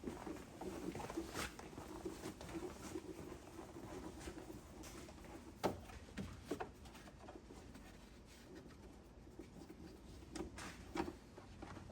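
Faint, scattered clicks and light knocks from hand tools and small parts being handled.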